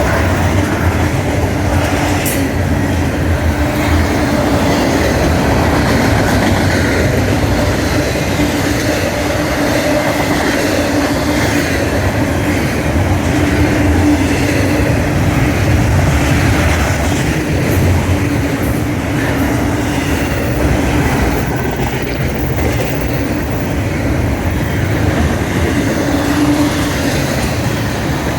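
Freight train rolling past, a loud, steady rumble of steel wheels on the rails.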